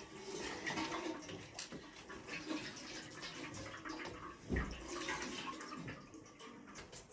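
Water splashing and sloshing as something is washed by hand, in uneven strokes, with a dull thump about halfway through.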